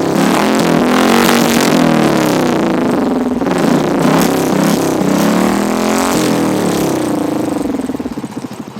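Royal Enfield Classic 350's single-cylinder engine running through an aftermarket Dolphin silencer, revved up and let back down several times in a row, then easing back toward idle near the end.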